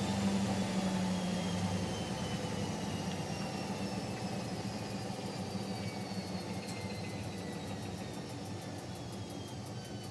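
Siemens Siwamat Plus 574 washing machine's drum and motor slowing down at the end of an interim spin during rinsing, a whine falling steadily in pitch and slowly getting quieter.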